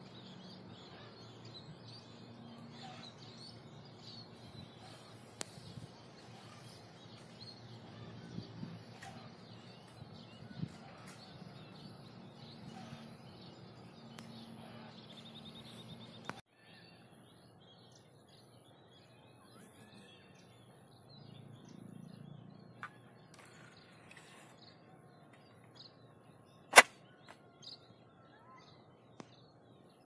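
Outdoor ambience of faint, scattered bird chirps over a low steady background hum. Just past halfway the background drops suddenly and becomes quieter, and a single sharp click sounds near the end.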